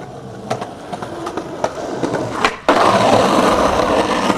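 Skateboard wheels rolling over hard ground, getting louder, with sharp clicks as they cross seams or bumps. The rolling turns much louder just under three seconds in.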